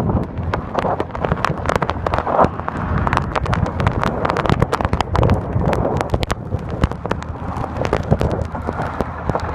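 Snowstorm wind buffeting the microphone, with a low rumble of road traffic underneath and frequent sharp crackles throughout.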